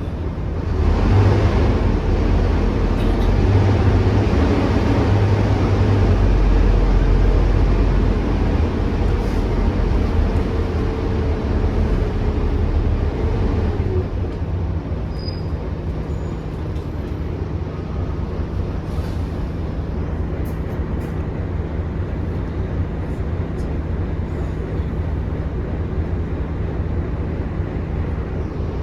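Volvo B9TL double-decker bus's six-cylinder diesel engine pulling hard under acceleration, heard from on board. The engine note eases about halfway through and settles to a steadier, quieter run.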